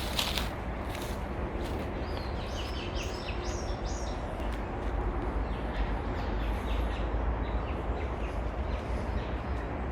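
Small birds chirping in a quick run of short high calls from about two and a half to six seconds in, over a steady low rumble of wind on the microphone.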